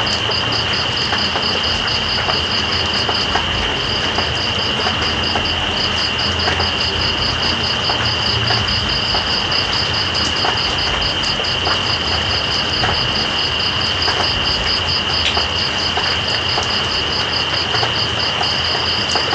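Steady rain with scattered faint drips under night insects calling: one high, unbroken trill and a higher, pulsing chirp at about five pulses a second that pauses briefly about five seconds in.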